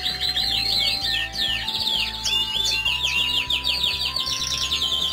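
Domestic canary singing: fast rolling trills of rapidly repeated high chirps, one phrase after another, over a low steady hum.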